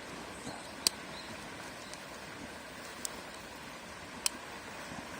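Small kindling fire crackling, with three sharp pops spread over the few seconds, over a steady rushing hiss.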